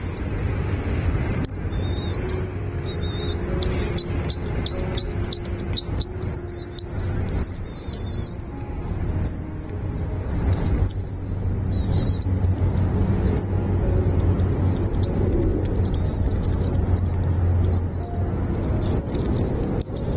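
Small birds chirping in quick, high, short notes, repeated many times, over a loud, steady low rumble.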